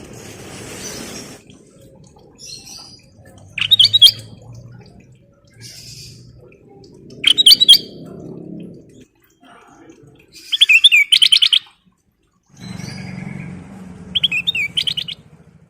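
Kutilang emas bulbul singing in four short bursts of loud, bright chirps, the third a rapid run of notes about a second long. A faint low rumble fills the gaps between bursts.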